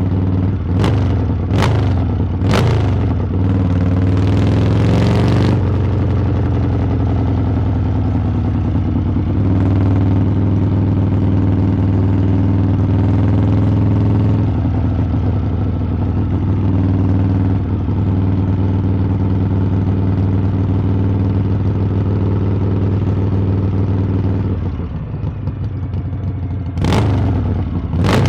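Harley-Davidson V-twin exhaust on the move: the engine note climbs under throttle over the first few seconds, broken by several sharp cracks, then holds a steady cruising note. It drops off about 25 seconds in, then two more sharp cracks come near the end.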